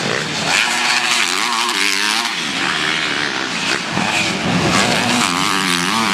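Several motocross bikes' engines running at once, their pitch repeatedly rising and falling as the throttles open and close.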